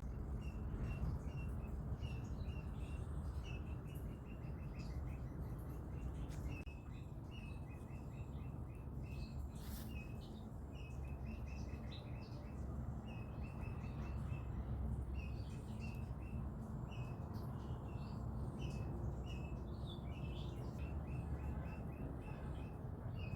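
Small birds chirping: short high notes repeated in runs, sometimes quickened into brief trills, over a steady low background rumble.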